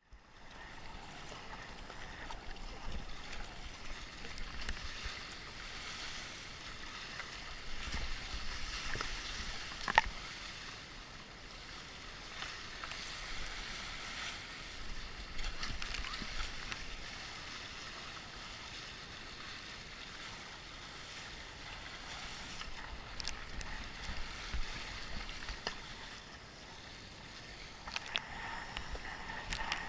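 Sea water rushing and splashing along a P&H Delphin 155 sea kayak's hull while it surfs wind waves, the wash swelling and easing as it rides, with wind on the microphone. One sharp knock comes about ten seconds in, and a few smaller clicks near the end.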